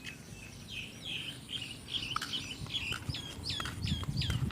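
A bird calling in a quick run of short, high chirps that slide downward, about three a second, growing louder toward the end, over a low rumble.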